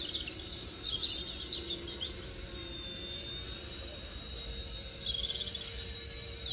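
Small electric RC helicopter hovering, its motor and rotors giving a steady whine, with birds chirping in short flurries early on and again near the end.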